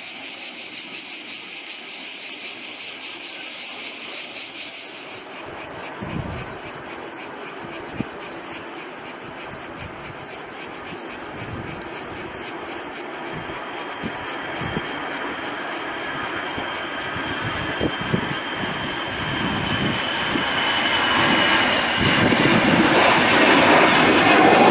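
Jet airliner drawing nearer, its engine noise building steadily from about five seconds in and loudest near the end, where a whine falls slightly in pitch. A steady high hiss sits underneath.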